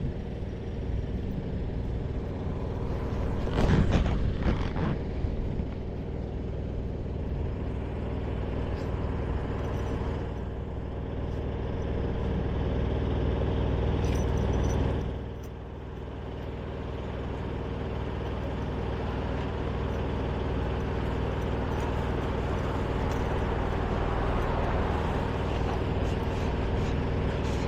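Heavy engine running steadily, with a louder, harsher burst of noise about four seconds in and a short drop in level around fifteen seconds.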